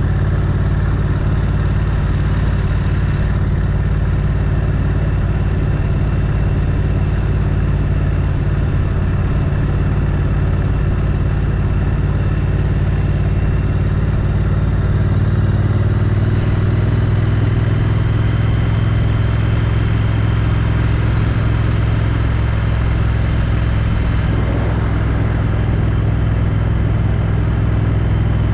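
Triumph Street Twin's 900 cc parallel-twin engine running through its stock exhaust while riding along at a steady pace, heard from the rider's helmet. The engine note shifts about halfway through.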